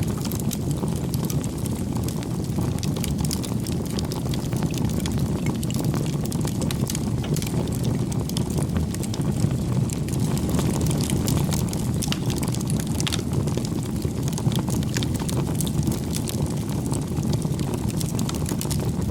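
Wood fire burning: a steady low rush of flame with frequent sharp crackles and pops from the burning wood.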